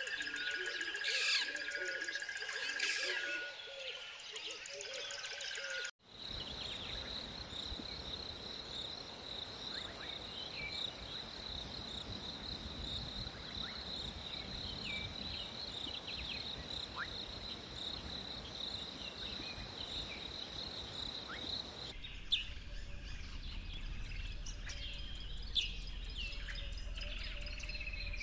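Outdoor nature ambience of birds chirping and singing. It changes abruptly twice: dense birdsong at first, then from about six seconds in a steady high-pitched whine over an even noise with a few scattered chirps, then from about twenty-two seconds birdsong again over a low rumble, with two brief clicks.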